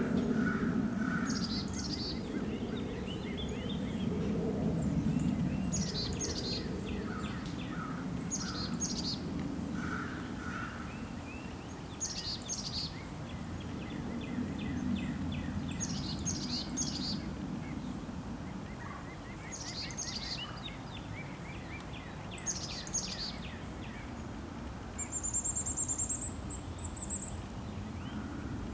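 Small birds calling in short clusters of high chirps every two to three seconds, over a steady low rumble. Near the end a higher, thin note is held for about two seconds.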